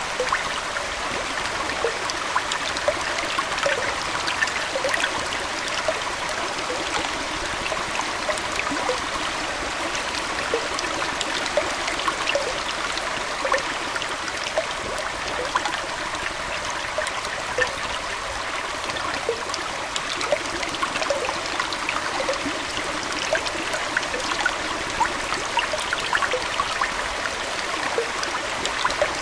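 Aquarium water flowing and trickling steadily, with many small bubbling plinks scattered throughout.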